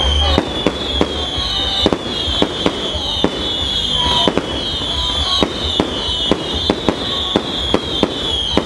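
Fireworks going off: a rapid, irregular string of sharp bangs with high whistling tones that keep repeating, each falling slightly in pitch.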